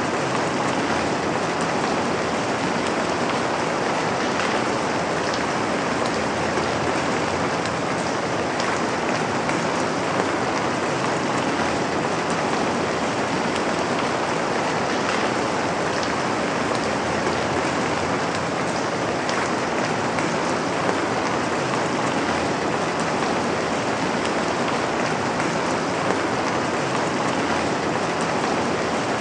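Steady rain falling on a surface, a dense even hiss of many drops with no changes or breaks.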